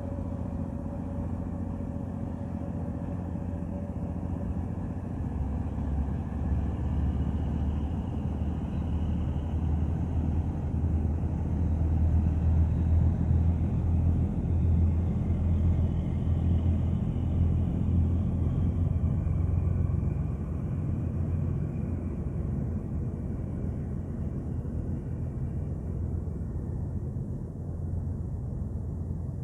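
Ship's engine running with a steady low rumble that grows louder about a fifth of the way in and eases off again after about two-thirds.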